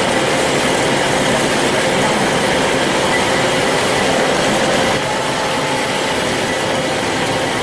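Band saw running steadily, with a faint high ring over the noise of the blade. Graphite has been applied to its blade to keep it cool. The level drops slightly about five seconds in.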